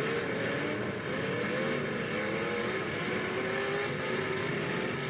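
Demolition derby car engines running and revving, their pitch rising and falling over a steady noisy rumble.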